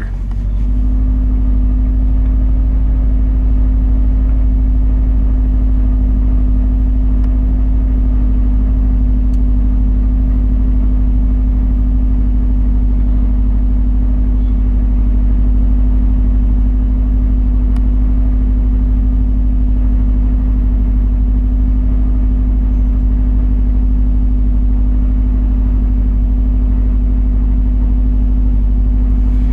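Car engine idling steadily, still cold shortly after a start on a cold night, at a raised speed held by the engine computer rather than the throttle pedal. The owner is chasing a rough idle in this car.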